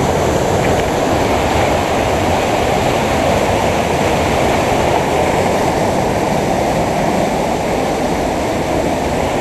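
Steady rushing water of a waterfall, a loud unbroken noise weighted to the low and middle range.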